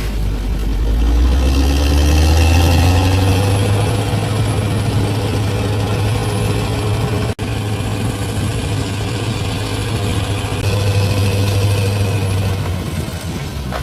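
Large crawler bulldozer's diesel engine running steadily with a deep low drone, the sound dropping out for an instant about halfway through.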